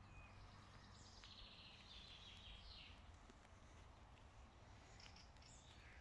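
Faint songbird song: a trilled phrase of quickly repeated notes starting about a second in and lasting nearly two seconds, then a few short high notes near the end, over a low background rumble.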